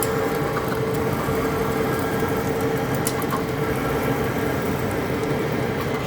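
Heavy-duty lathe running steadily while turning a large steel part, a constant machine hum with one steady held tone.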